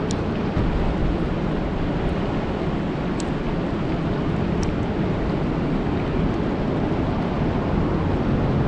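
Steady rain falling on a lake: a dense, even hiss weighted toward the low end, with a few sharp ticks now and then.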